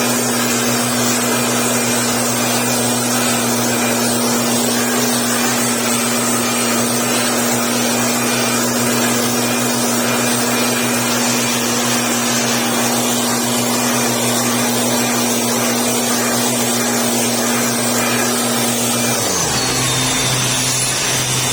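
Engine-driven backpack mist blower running at full throttle, its small engine holding a steady high pitch under a loud rush of air as it blows sand dust off the chili plants. About 19 seconds in, the engine pitch drops as it is throttled back to idle.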